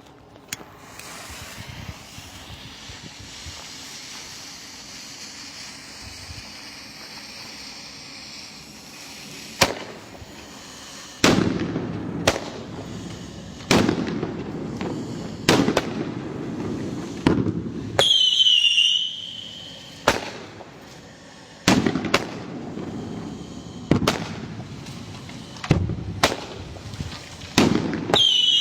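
Sky shot fireworks going off one after another: after several seconds of steady hiss, a string of about twenty sharp bangs at roughly one a second, each followed by a short rushing tail, with a brief whistle twice.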